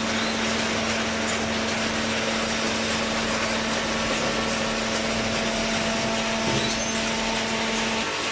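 Hydraulic cardboard baler running: a steady mechanical hum with a constant low tone under an even hiss, the tone shifting shortly before the end.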